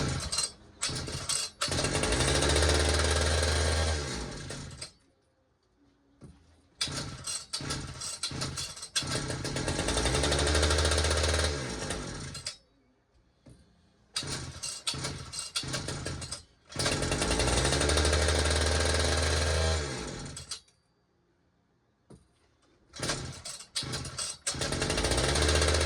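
Pioneer P-41's 66cc two-stroke chainsaw engine sputtering into life, running loudly for about three seconds, then dying, and doing this four times over. It runs only on gas sprayed into it, because the fuel line is not picking up fuel.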